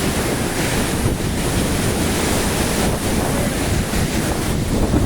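Waterfall's falling water, a steady loud rush, with wind buffeting the microphone.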